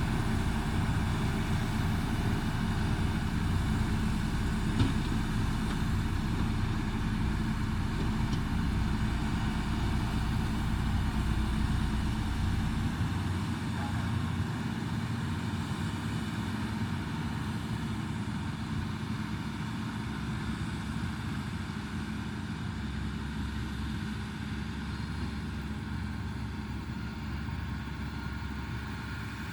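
Diesel engine of heavy road-building machinery running steadily. The deepest rumble drops away about halfway through and the sound becomes a little quieter.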